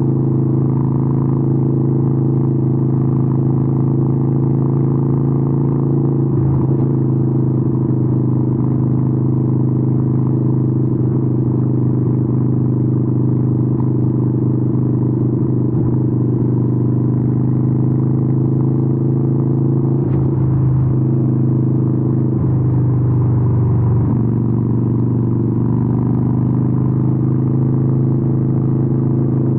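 Harley-Davidson 883N Sportster's air-cooled V-twin running steadily through Vance & Hines exhausts while cruising. The engine note changes briefly a few times, about six seconds in and again around twenty and twenty-three seconds in.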